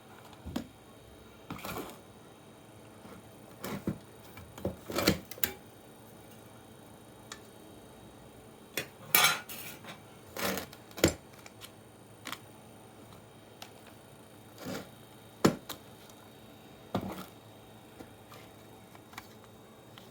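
Irregular metallic clinks, taps and short clatters of tools and metal parts being handled while a computer power supply is taken apart.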